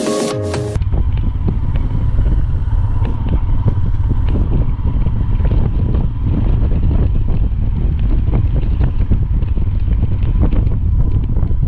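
Strong wind buffeting the microphone: a loud, steady low rumble with small crackles. Music cuts off under a second in.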